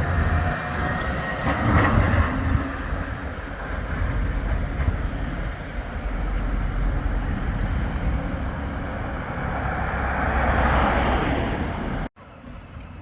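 Flexity 2 tram running along street track, a steady rail rumble with wheel noise that swells near the end. It cuts off suddenly just before the end, leaving quieter street background.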